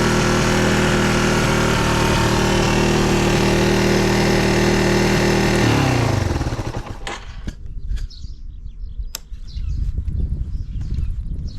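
Yamaha Serow 225W's single-cylinder four-stroke engine idling steadily, then shut off about six seconds in, its pitch dropping as it dies. The engine has no abnormal noise but an exhaust leak at the exhaust manifold joint. After it stops there are a few sharp clicks over low rumbling noise.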